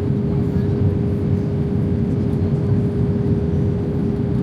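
Steady cabin noise inside an Airbus A320: an even, low rumble of engines and airflow with a constant mid-pitched hum running through it.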